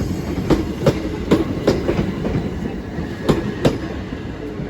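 Class 375 electric multiple unit passing at speed: the wheels beat a clickety-clack over the rail joints in irregular pairs over a steady rumble. The clicks stop a little after three and a half seconds in as the last coach clears, and the rumble fades.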